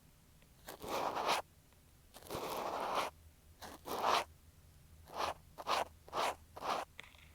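Cotton swab rubbing and scraping against an earphone microphone, close and crackly. It starts with a few slow strokes about a second long, then changes to quicker short strokes about twice a second.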